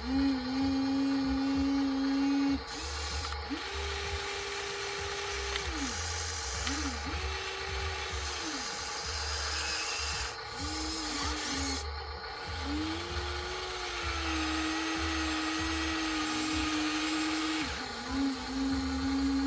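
Small electric gear motors of a Huina 1594 RC excavator whining in about seven separate runs, each lasting from half a second to about five seconds, with the pitch sliding up as a run starts and down as it stops. The longest run starts about thirteen seconds in.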